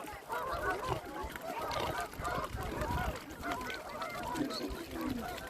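A flock of geese honking, many short calls overlapping in a dense, continuous chorus.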